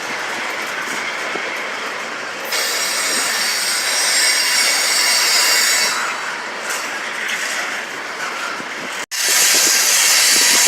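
Freight train cars rolling past, steel wheels squealing and clacking over the rail joints. The sound breaks off abruptly about nine seconds in and resumes louder.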